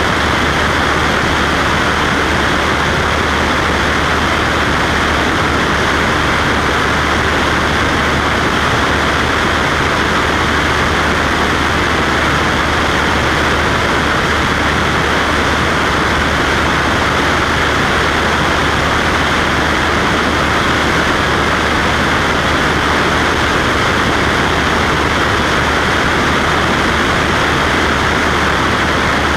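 Cessna Skywagon's piston engine and propeller droning steadily in flight, with a constant rushing noise.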